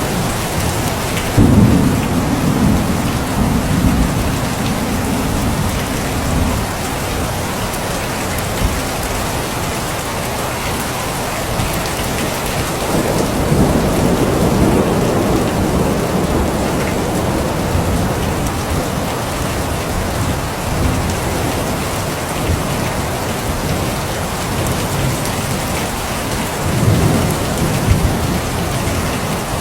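Steady heavy rain falling, with thunder rumbling low several times: a sharp clap and rumble about a second and a half in, another long roll around the middle, and a shorter one near the end.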